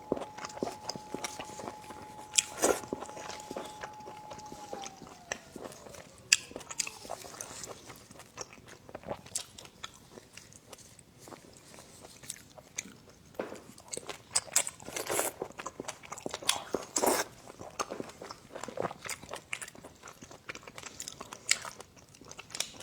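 Close-up eating sounds: a person biting, crunching and chewing food, with irregular sharp clicks and crunches throughout. A faint steady tone in the background slides down in pitch about five seconds in.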